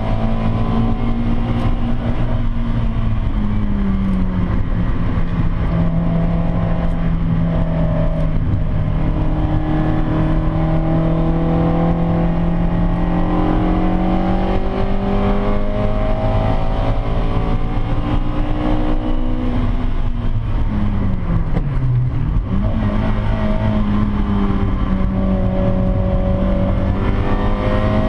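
Davrian Mk8's Hillman Imp four-cylinder engine running hard under load, heard from on board, over a steady rumble of road and wind noise. The engine note holds fairly level with slow rises and falls. It drops sharply and picks up again about 22 seconds in, as the throttle is lifted and reapplied.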